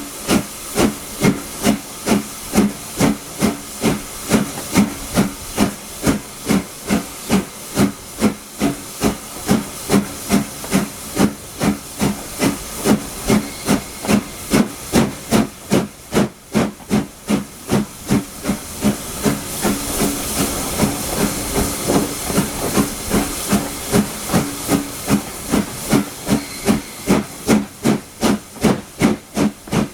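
LSWR S15 No. 506, a two-cylinder 4-6-0 steam locomotive, working under steam: a steady, regular chuff of exhaust beats at about two to three a second, over a hiss of steam. The hissing swells for a few seconds past the middle.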